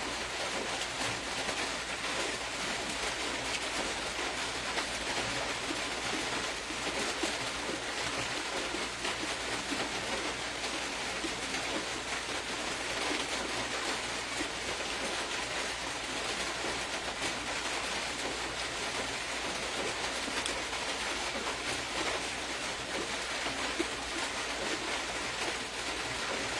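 Steady hiss with a fine crackling texture and a low hum beneath, unchanging throughout.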